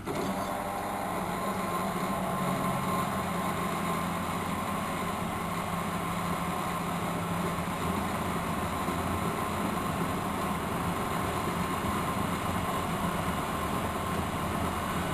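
Miele De Luxe Electronic W763 washing machine whose drum motor cuts in abruptly, then runs steadily with a low hum and a higher steady tone.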